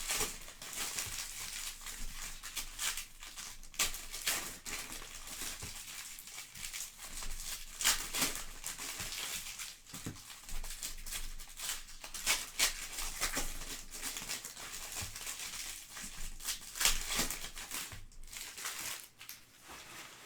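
Trading card pack wrappers and cards being handled: steady crinkling and rustling with many sharp crackles.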